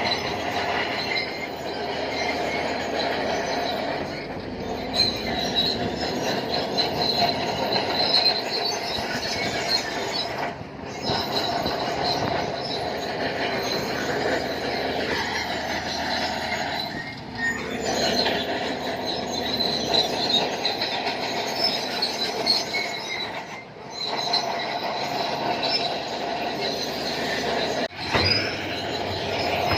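Shantui crawler bulldozer's steel tracks squealing steadily over its running engine, with a few brief drops in level.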